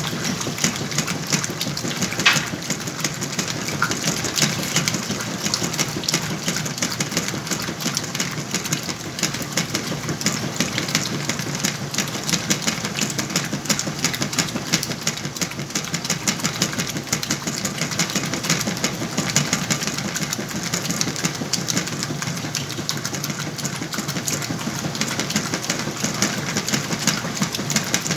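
Whirlpool washing machine running its cycle with a load of sheets and pillows: a steady, unbroken mechanical churning noise.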